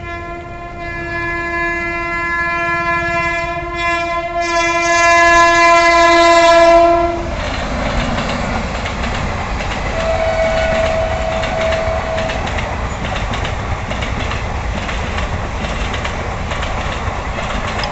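An Indian Railways train's horn sounds one long, steady note that grows louder for about seven seconds and then cuts off. The train then rushes past with a loud, even rumble and rattle of wheels on the rails. About ten seconds in, a short second tone sounds briefly.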